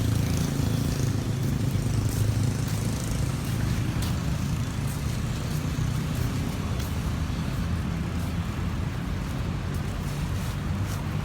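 A steady low motor-like rumble under a noisy hiss, with a few faint ticks; no speech.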